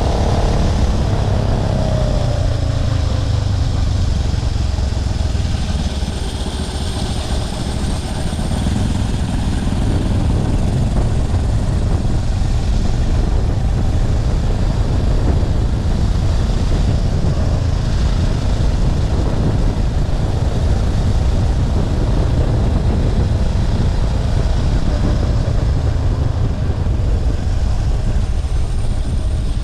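A motorbike's 212cc single-cylinder four-stroke engine running under way, with heavy wind buffeting on the microphone. The engine pitch falls for a moment in the first couple of seconds, then holds steady.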